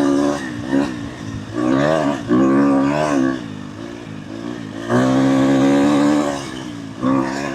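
Dirt bike engine under way, revving up and falling back several times as the throttle is opened and closed.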